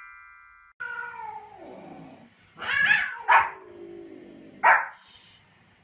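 A dog giving long whining cries that fall in pitch, broken by three short sharp barks from about halfway through. The tail of a musical chime fades out at the start.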